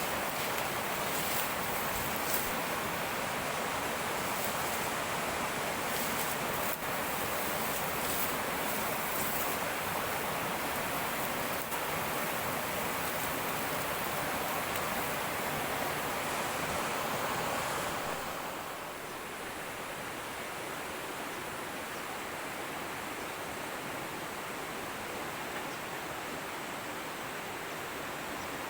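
Fast-flowing river water rushing in a steady wash of noise. About eighteen seconds in, it drops slightly in level and sounds a little duller.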